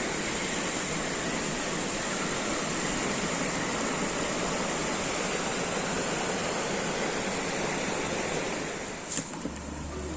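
Steady rushing water noise, either rain or the river's flow, holding even for about nine seconds. Near the end it drops away, with a sharp click and a low steady tone coming in.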